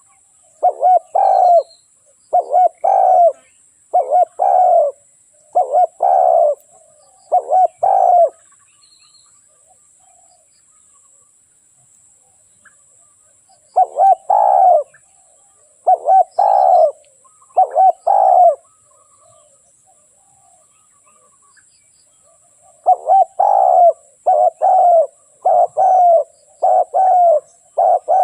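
Spotted dove cooing: repeated short phrases of paired coos in three bouts, with pauses of several seconds between them, quickening near the end.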